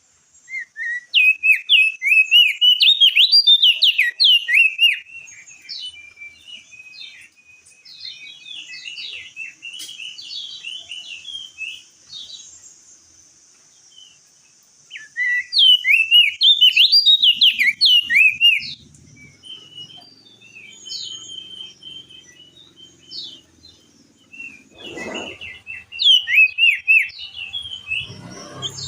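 Crested white-eye (opior jambul) singing in loud bouts of rapid, sweeping whistled notes: one starting about a second in, another about halfway through and a third near the end, with softer scattered chirps between. A faint steady high hiss runs under the first half, and two dull thuds come near the end.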